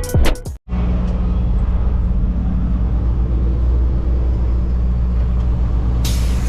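Intro music with drum hits cuts off about half a second in, then a semi truck's diesel engine runs with a steady low drone. A short hiss comes near the end.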